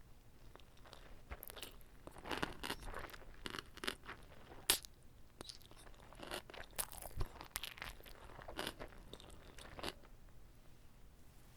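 Close-miked chewing of whole kimbap: irregular wet crunches and crackles of seaweed, rice and fillings, with one sharper crunch about halfway through.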